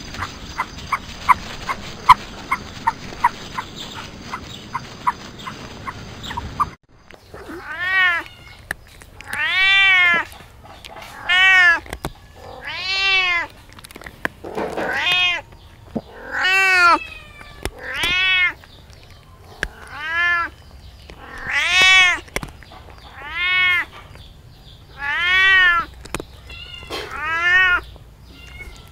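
A cat meowing over and over, a drawn-out rising-and-falling meow about every second and a half, starting after a sudden cut about seven seconds in. Before the cut there is a steady run of short ticks, roughly four a second.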